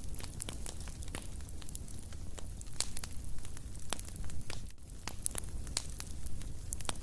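Fireplace fire crackling, with irregular sharp pops and snaps over a low steady rumble of flames.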